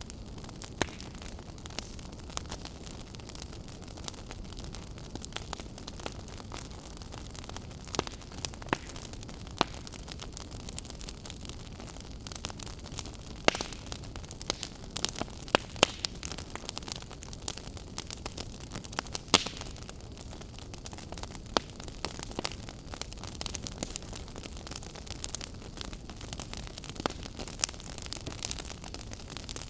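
Wood fire crackling in a fireplace: a steady low rush of burning with irregular sharp pops and snaps scattered throughout, thicker in the second half.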